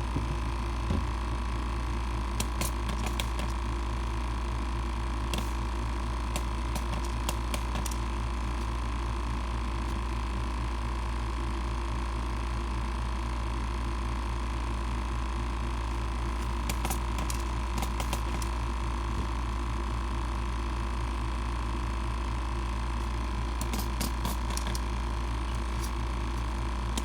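Small electric air pump running steadily with a low hum while it pressurises a nitro engine for an air-leak test, with scattered light clicks and rattles now and then.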